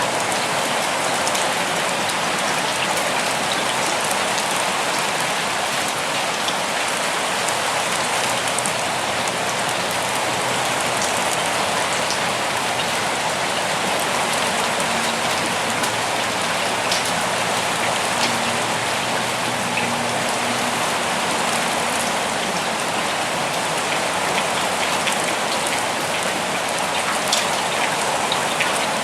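Steady, even rainfall, a dense hiss of rain with scattered individual drops ticking on surfaces.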